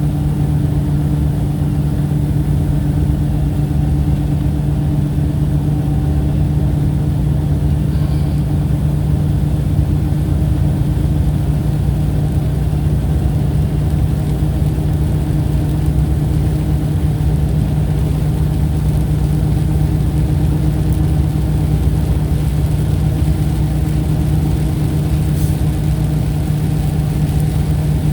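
A steady low mechanical hum with a constant deep tone over a rumble, unchanging throughout.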